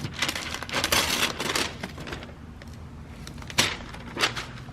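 A covering being peeled and torn off around a freshly plastic-dipped exhaust tip: several rasping tears in the first couple of seconds, then a few sharp crackles.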